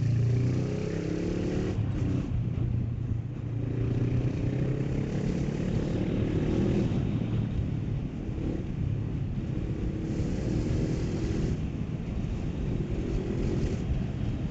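Honda CB500F's parallel-twin engine under way, its pitch climbing and dropping back several times as it pulls through the gears, with wind rush over the microphone.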